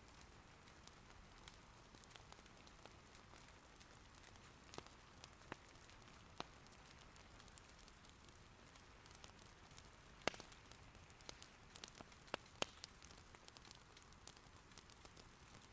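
Faint, steady patter of rain with an irori wood fire crackling: scattered sharp pops, more of them and louder from about ten seconds in.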